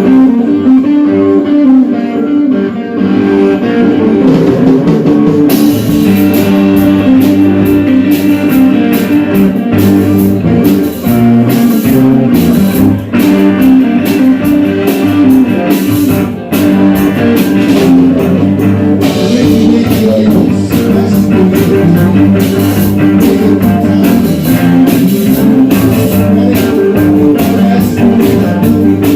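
Rock music led by guitar over bass, with a drum kit coming in about five seconds in and keeping a steady beat.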